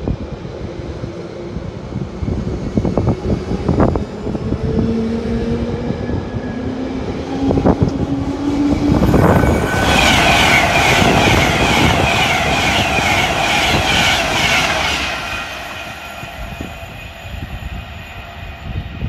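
Bakerloo line 1972 stock train pulling away, its traction motors whining with a slowly rising pitch. About ten seconds in, an Avanti West Coast express train passes at speed, a loud rushing rumble lasting about five seconds that then fades away.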